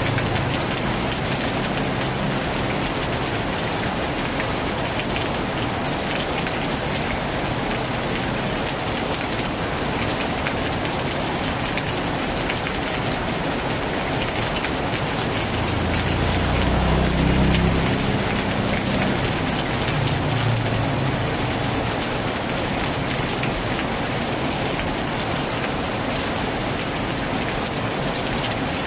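Heavy rain hammering steadily on a tin roof, a dense, even hiss. About sixteen seconds in, a low rumble swells for a couple of seconds and fades.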